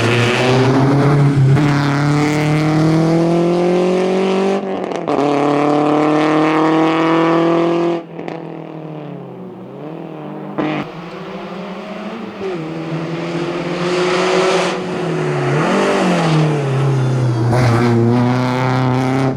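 Peugeot 206 GTI rally car's engine revving hard and climbing in pitch as it accelerates. About eight seconds in the sound drops away, with several short rev dips and rises as it brakes and changes gear, then it pulls hard again near the end.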